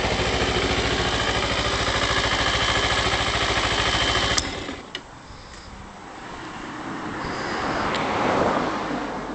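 Kawasaki Ninja 250R's parallel-twin engine idling steadily, then shut off abruptly with a click about four seconds in. After it stops, a quieter rushing noise swells and fades near the end.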